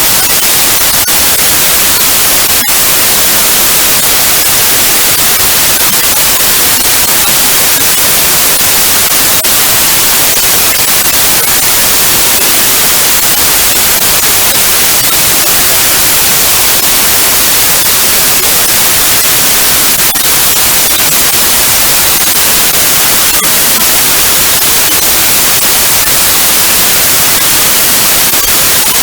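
Computer-generated white noise: a loud, even hiss, unchanging throughout.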